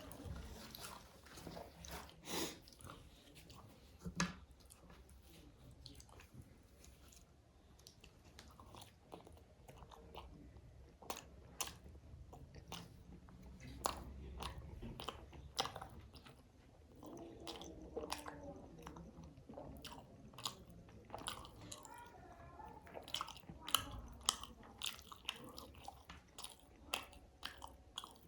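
Close-miked eating: wet chewing with irregular crunchy bites and mouth clicks.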